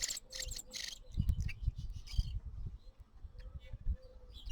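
Fledgling starling's quick, high begging chirps for about the first second, then low thumps and rumbling.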